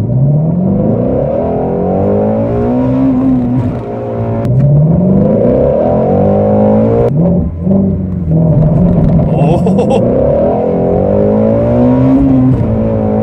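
Ford Shelby GT350's 5.2-litre flat-plane-crank V8 at full throttle in a run of hard launches, heard from inside the cabin. The engine note climbs steeply about four times, each climb breaking off at a shift or cut and starting again.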